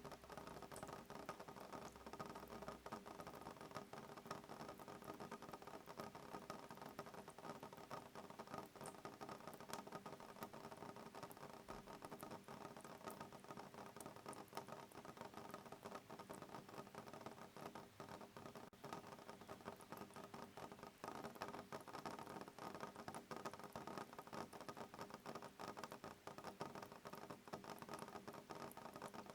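Soft rain pattering on a window pane: a quiet, steady mass of small, irregular drop ticks with no thunder.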